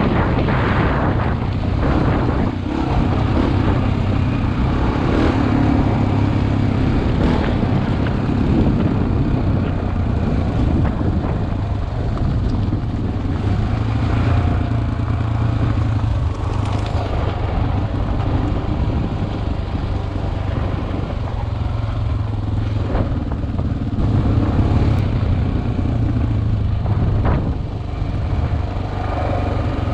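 Single-cylinder four-stroke dual-sport motorcycle engine running steadily under way on a dirt track, heard from the rider's helmet, with scattered short knocks and rattles.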